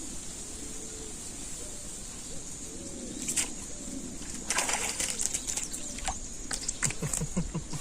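A dove cooing, a few soft low notes in the first half, over a steady high-pitched drone. From about three seconds in there are several short rustling or knocking noises.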